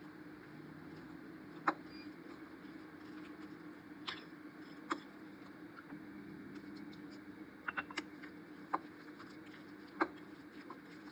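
Scattered light clicks and taps, about nine over several seconds with a quick cluster just before the eight-second mark, over a steady low hum.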